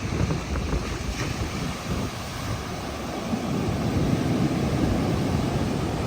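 Strong wind buffeting the microphone in uneven gusts, over the steady noise of heavy surf.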